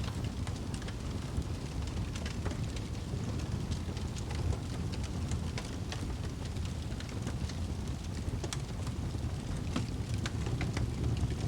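Fire crackling in a fireplace: a steady low rumble of flames with frequent small sharp pops and crackles scattered throughout.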